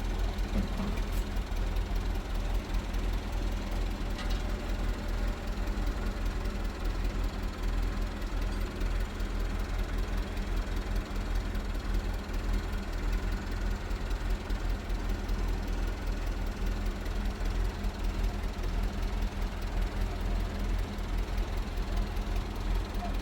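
Steady low rumble of a running engine, unchanging in pitch and level.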